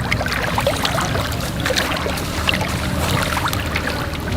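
A steady low rumble with water splashing and lapping around a small boat, dotted with many short ticks and splashes.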